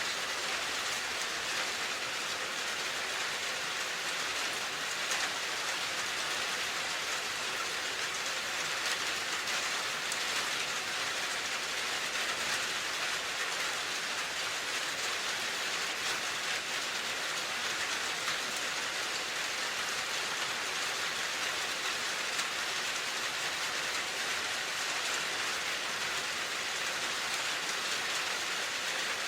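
Steady rain falling, a dense even hiss of many small drops landing on a surface.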